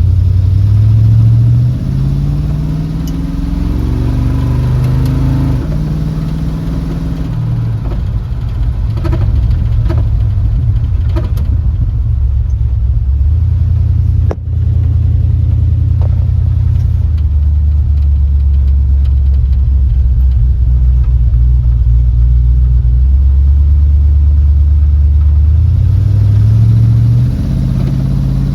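Small-block Chevy V8 of a hot rod truck under way. The engine note climbs in steps over the first few seconds, drops back and runs steady for a long stretch, then rises again near the end.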